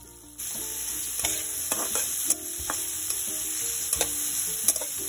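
Chopped onions, tomatoes and peas sizzling in oil in a wok, with a metal spatula clinking and scraping against the pan as they are stirred. The sizzling starts suddenly about half a second in.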